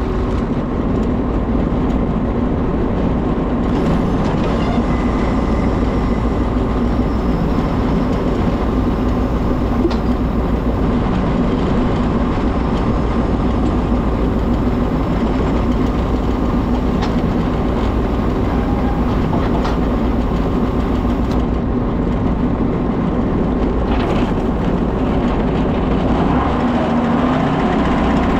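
Tractor engine running steadily with a constant low hum, pulling a hay tedder.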